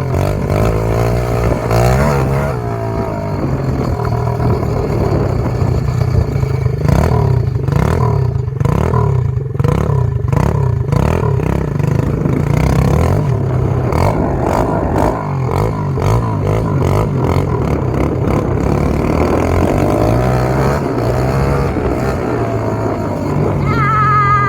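SSR 125 pit bike's single-cylinder four-stroke engine revving up and down under throttle. Through the middle stretch the sound turns choppy, with several rapid pulses a second.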